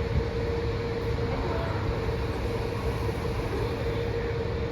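Metro-North commuter train running, a steady low rumble with a steady mid-pitched hum over it.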